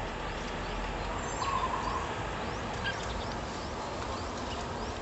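Faint outdoor background with scattered short, high chirps of small birds, and a brief wavering call about one and a half seconds in.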